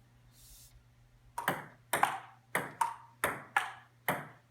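Ping-pong ball knocked back and forth in a short rally, hitting the table and the paddles: seven quick sharp clicks, starting about a second and a half in and stopping shortly before the end.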